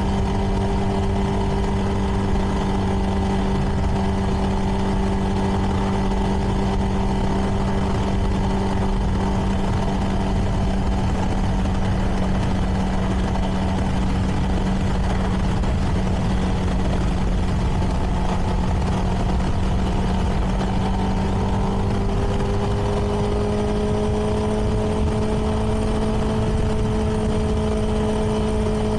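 CFMoto 300NK motorcycle's single-cylinder engine through its stock exhaust, running at a steady cruise; its note rises slightly a little past two thirds of the way through and holds, over a low rush of wind.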